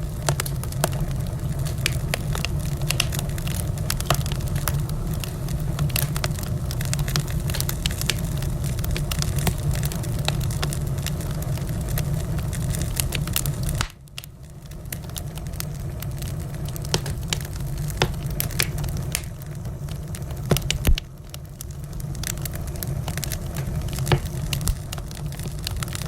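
Wood fire in a fireplace crackling, with frequent sharp pops and snaps over a steady low rumble of the burning flames. The sound drops suddenly about halfway through and again briefly near the end, then builds back up.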